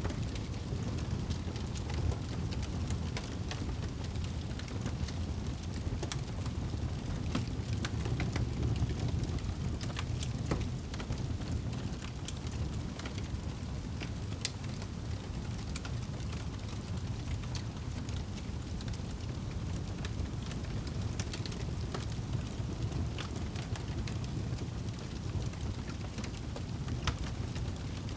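Wood fire burning in a fireplace: a steady low rumble of flames with scattered crackles and pops from the burning logs.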